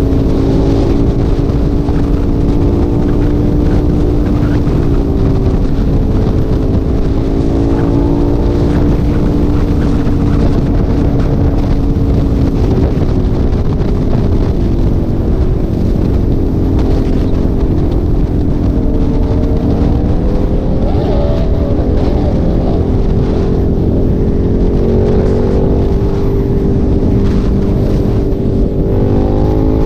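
Motorcycle engine at freeway cruising speed, a steady hum whose pitch dips and rises a few times as the throttle changes, partly buried in heavy wind noise on the microphone.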